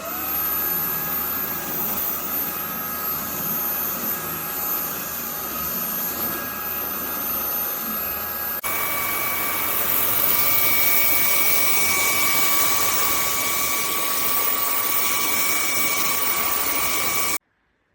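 Cordless stick vacuum's motor running with a high whine. It spins up at the start, jumps abruptly to a steadier whine at a different pitch about halfway, and cuts off suddenly near the end.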